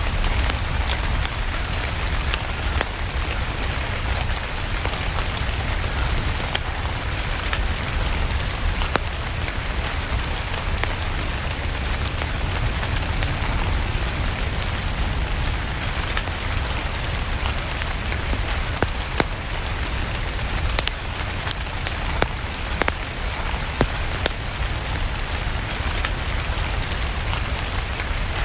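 Steady rain, with scattered sharp pops of a crackling wood fire and a steady low rumble underneath.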